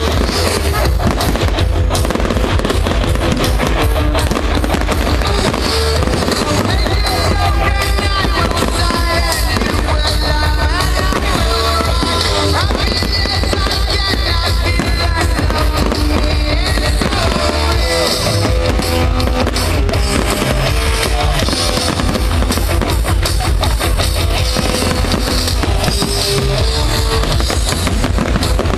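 Fireworks going off in rapid, dense bangs and crackles, mixed with rock music.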